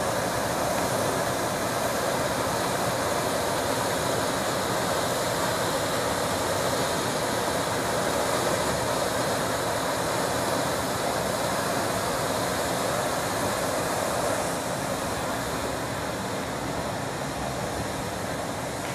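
Water gushing under pressure from a fire hydrant sheared off by a truck: a loud, steady rush that grows somewhat quieter over the last few seconds.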